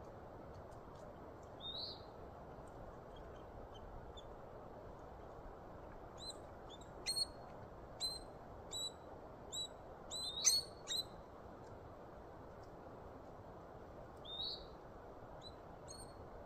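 Woodpecker calling: a run of short, sharp high call notes about a second apart, between roughly seven and eleven seconds in, with a single rising chirp near the start and another near the end, over a steady background hiss.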